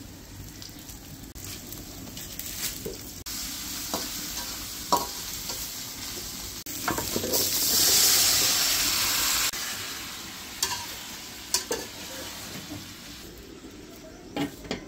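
Onion and ground spice paste sizzling in oil in a metal karahi, with a spoon knocking against the pan as it is stirred. About seven seconds in, chopped banana stem and potato are tipped into the hot oil and a loud hissing sizzle rises for a couple of seconds, then dies back to a low frying sound with more knocks of the spoon.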